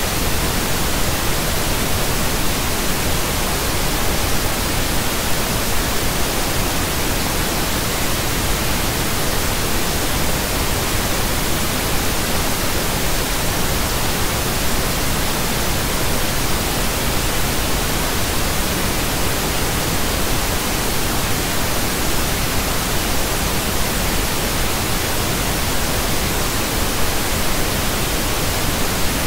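Pink noise: a steady, unchanging hiss spread evenly across the whole range of pitch, with no tones or events.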